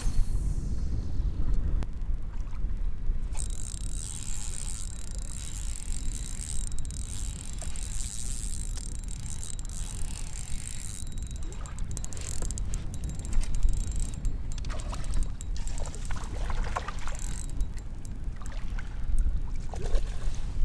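Wind buffeting the microphone as a steady low rumble, with a hissing wash of water from about three seconds in until about eleven seconds, and a few light knocks near the end.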